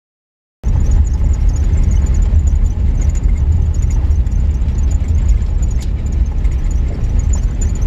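Steady low rumble of a moving vehicle: engine and road noise heard from inside a van, starting abruptly less than a second in after dead silence.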